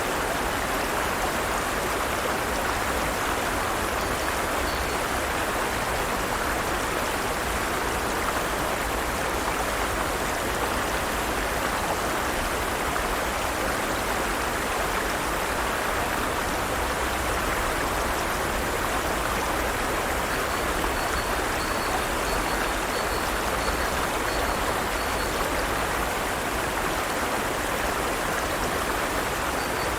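Forest stream running steadily over rocks, a continuous even rush of flowing water. A faint run of short high chirps sits over it about two-thirds of the way through.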